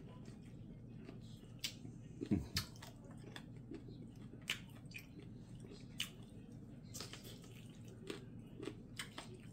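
A person chewing and nibbling stir-fried chicken feet: scattered small wet mouth clicks and smacks, roughly one a second, over a faint steady low hum.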